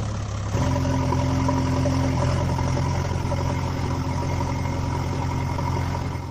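Steady engine-like hum, stepping up in pitch and loudness about half a second in and then holding even.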